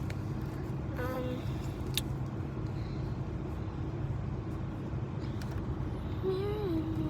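Steady low vehicle rumble with a constant hum, heard inside a stationary car cabin. There is a brief pitched chirp about a second in and a short wavering hum-like sound near the end.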